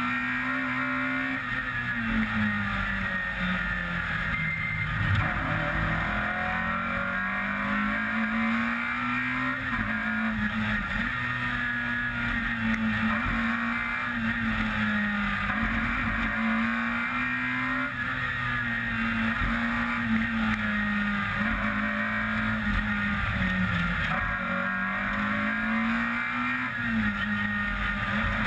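Peugeot 106 rally car's engine driven hard on a tarmac stage, heard onboard. The engine note climbs and then drops back sharply every few seconds as the driver shifts gear and lifts for bends.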